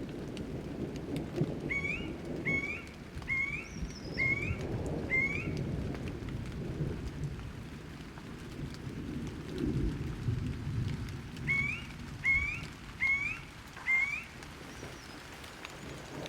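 Thunderstorm ambience: a low rolling thunder rumble and rain. Over it a bird repeats a short rising call about once a second, five times early on and four times again in the second half.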